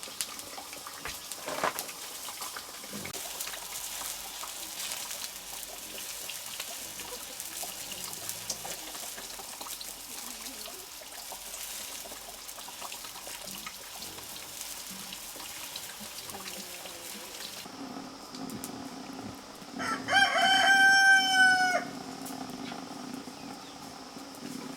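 A rooster crows once, a level-pitched call of about two seconds and the loudest sound here, over an even hiss with scattered clicks.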